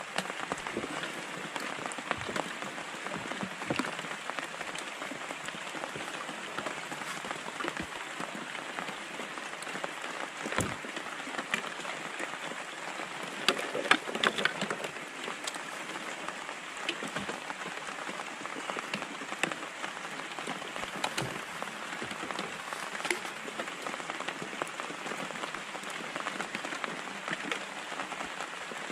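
Rain pattering steadily, a dense hiss of many small drop hits, with a few louder knocks about ten seconds in and a short cluster around fourteen seconds.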